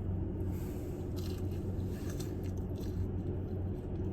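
Close-up chewing of crunchy breaded McDonald's chicken nuggets, a run of crackly crunches through the first three seconds, over a steady low hum.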